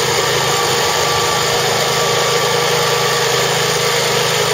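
An engine running steadily and loudly at a constant speed, cutting in suddenly at the start.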